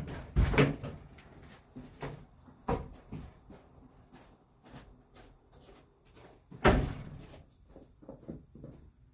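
A few irregular dull knocks and clunks, the loudest about two-thirds of the way through, while the front of the RV is lowered onto its supports.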